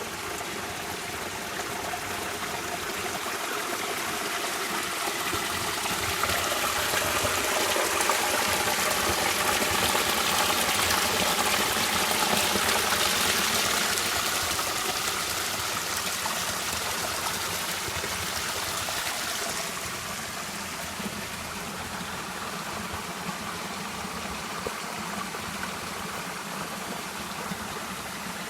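Stream water flowing and rushing steadily, swelling louder about a third of the way through and easing back down in the second half.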